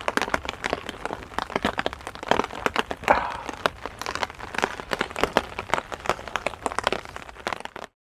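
Heavy rain falling, heard as many sharp, irregular drop taps close to the microphone; it cuts off abruptly near the end.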